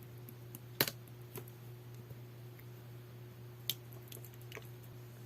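Jelly-textured pearl slime being pressed and played with by hand: scattered sticky clicks and pops, the two loudest a little under a second in and near the four-second mark, over a faint steady hum.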